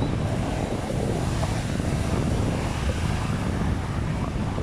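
Stormy sea: heavy surf breaking with strong wind buffeting the microphone, a steady dense roar that is strongest in the low rumble.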